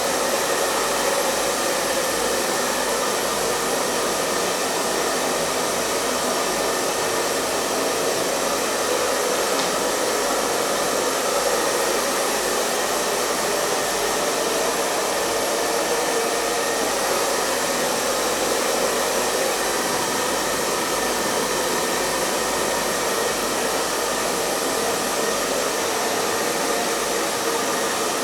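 Hair dryer running steadily: an even, unbroken rush of blown air with a faint motor whine mixed in.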